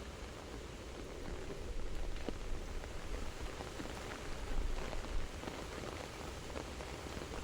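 Soft rain falling steadily, with scattered individual drops tapping a little louder over the even patter.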